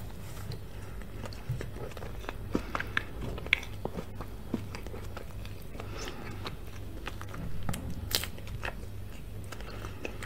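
Close-miked chewing of moist chocolate layer cake, with many small wet mouth clicks and smacks.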